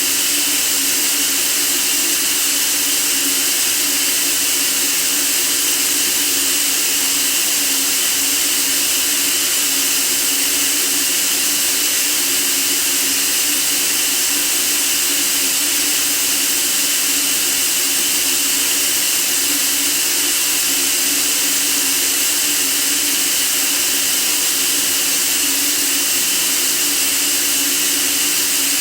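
White noise for sleep: a steady, unchanging hiss.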